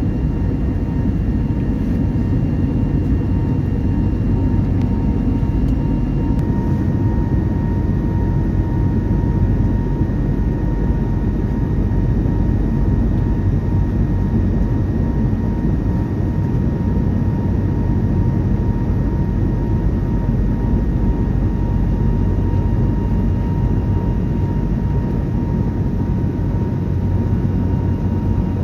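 Steady in-flight cabin noise of an Airbus A321neo: an even low rumble of engine and airflow with a thin steady whine on top. A faint higher tone shifts down in pitch about six seconds in.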